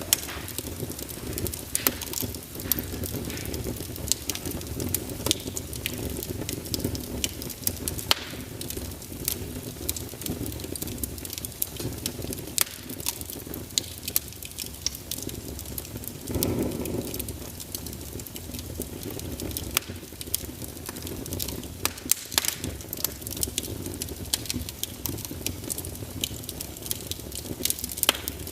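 Wood burning in a fireplace: frequent sharp crackles and pops over a steady low rumble of the flames, with a brief louder rush about halfway through.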